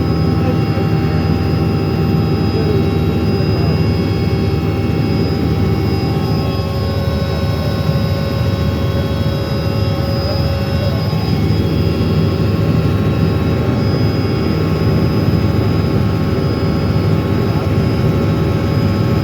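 Helicopter in flight: a steady engine and rotor drone with several held whining tones over it.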